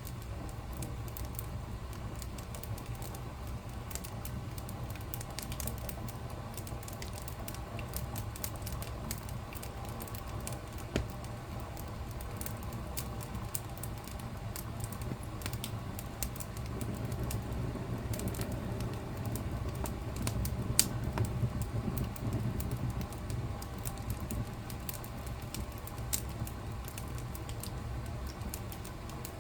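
Wood fire crackling in a fireplace: scattered sharp snaps and pops over a steady low rumble of burning, the rumble swelling for a few seconds past the middle.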